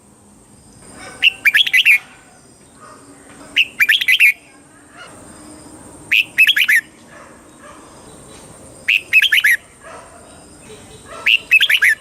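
Red-whiskered bulbul singing: five short, quick phrases of several bright notes each, about every two and a half seconds.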